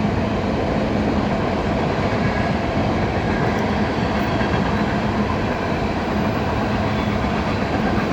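A long CSX mixed freight train's cars rolling past on the rails: a steady rumble and rattle of wheels and car bodies.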